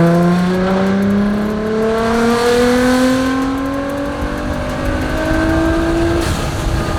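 Nissan GT-R R35's twin-turbo V6 with a Linney drag exhaust accelerating under load, its pitch climbing steadily for about six seconds before the driver lifts off, during a logging run on a fresh speed-density tune.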